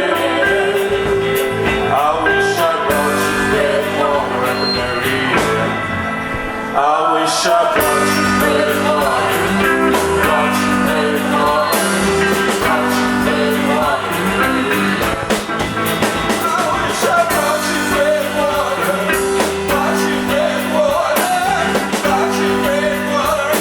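Rock band playing with singing, electric guitar and drum kit; the music gets louder about seven seconds in.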